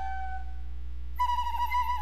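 A flute-like whistle imitating bird calls: a falling note fades out just after the start, then a warbling, trilling call begins about a second in. A steady low hum runs underneath.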